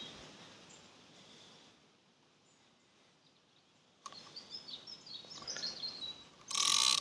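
Outdoor quiet with small birds chirping and twittering, starting about halfway through; just before the end comes a brief, loud, harsh burst.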